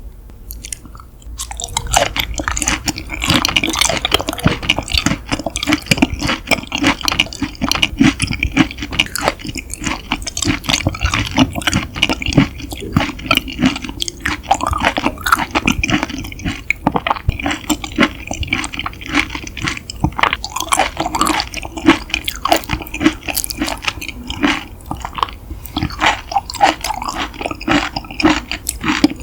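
Close-miked chewing of yukhoe, seasoned Korean raw beef: a stream of soft, wet mouth sounds and rapid small clicks that starts about a second and a half in.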